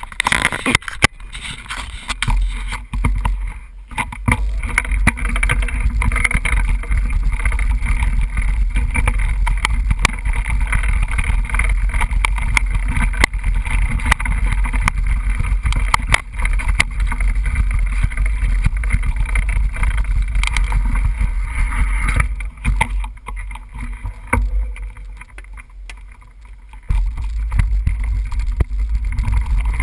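A mountain bike in motion heard from its GoPro: wind buffeting the microphone, with tyre noise and frequent knocks and rattles over rough trail. It goes quieter for a few seconds about two-thirds of the way through, then picks up again.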